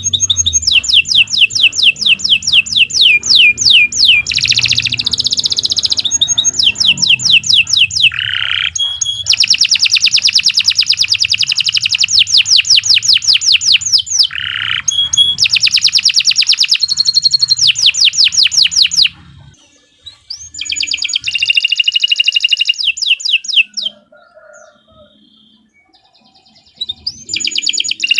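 Domestic canary singing vigorously: long trills of fast, rapidly repeated high notes, changing from one tour to the next, with two short pauses in the second half.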